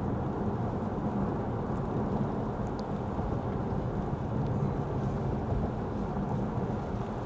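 Steady low rumble of tyres on wet road with engine drone, heard inside the Lexus ES 350 F Sport's cabin while driving in rain. A few faint ticks of raindrops hit the car.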